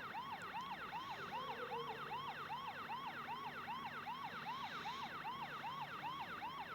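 Police siren sounding a fast yelp, its pitch rising and falling about three times a second.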